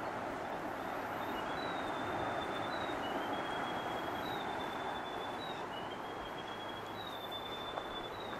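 A bird sings long, clear whistled notes, each about a second long, alternating between a higher and a slightly lower pitch, beginning a second or two in. Under it runs a steady rushing background.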